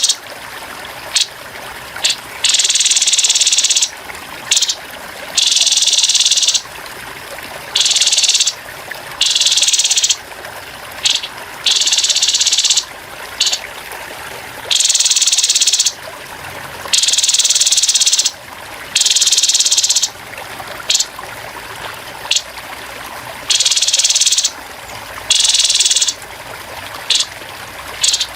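Grey-headed babbler (tepus kepala abu) giving harsh, buzzy rattling calls: a run of short bursts and others about a second long, every second or two, over a steady background of trickling water.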